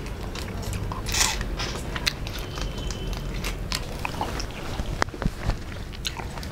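Two people biting into and chewing fried prawns, with scattered crisp crunches and clicks.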